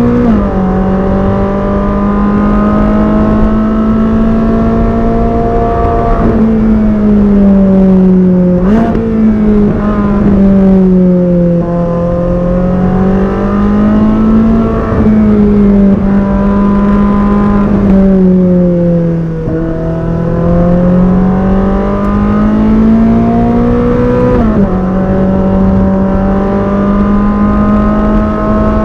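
Ferrari 458 Speciale's naturally aspirated V8 running under way at moderate revs, its pitch rising and falling smoothly as the car speeds up and eases off. Sudden pitch jumps mark gear changes: a drop about half a second in, a quick rise near nine seconds, and another drop near twenty-five seconds.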